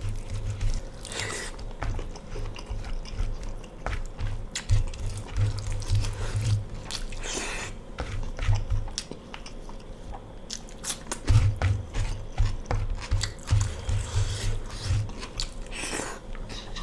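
Close-miked mukbang eating sounds of mutton curry and rice: wet chewing and smacking with many short mouth clicks and low thuds from each chew, alongside the squelch of fingers mixing rice into the gravy.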